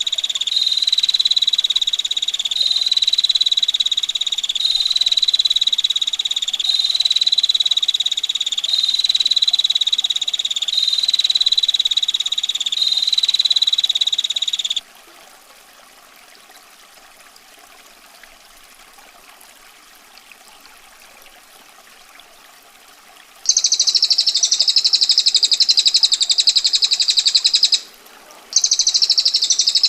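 Looped birdsong recordings of a cililin and a female prinia: a dense, high trill repeated in phrases about two seconds long for roughly fifteen seconds, then a pause with only a faint hiss of running water, then a harsh, very rapid rattling call starting about three-quarters of the way in, breaking off briefly near the end.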